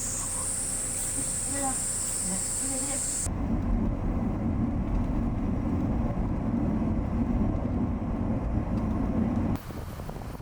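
A steady high-pitched drone for the first few seconds, then a sudden change to the steady low rumble of a vehicle in motion, which lasts about six seconds before cutting off.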